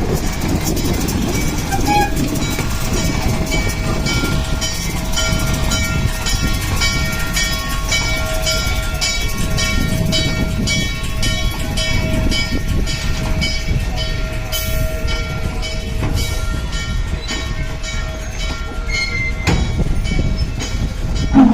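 Train hauled by the steam locomotive N&W 611 running along the track: a steady rumble with a fast, even clicking of wheels on the rails. A loud held tone starts right at the end.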